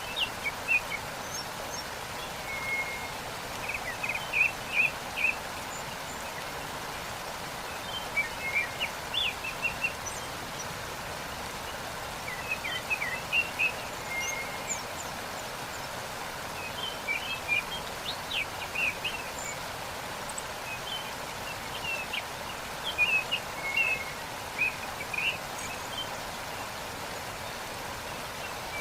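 Steady rush of a waterfall, with small birds chirping and twittering in short bursts every few seconds.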